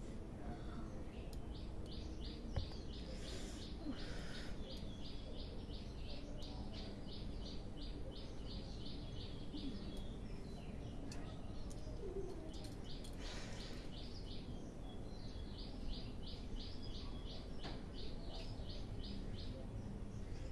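A bird's rapid repeated chirping, about four high chirps a second in two long runs, over a steady low background noise. Two brief rustles come about four seconds in and again about thirteen seconds in.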